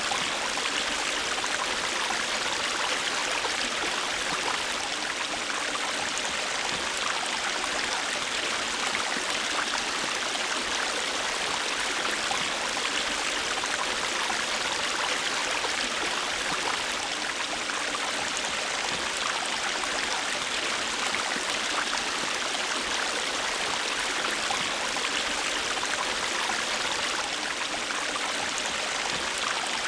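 River water flowing over rocks: a steady, even rush and babble with no change.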